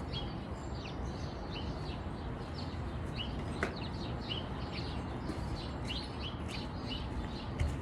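Small birds chirping repeatedly in short, quick notes over a steady background hum of outdoor noise, with one brief click about three and a half seconds in.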